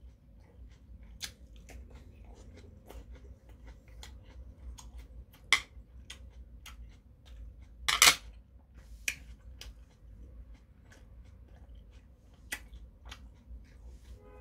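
A person eating with the mouth close to the microphone: wet chewing and lip-smacking clicks at an irregular pace. The loudest click comes about eight seconds in.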